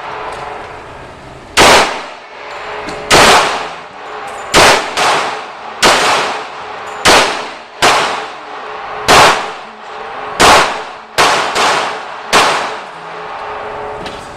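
Gunshots: about a dozen single shots fired one after another at an uneven pace, each a sharp crack with a short ringing echo.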